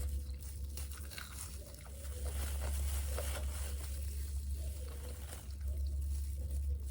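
Close-up eating sounds of fried chicken and fries: small crunches, clicks and wet mouth noises from chewing, over a steady low hum.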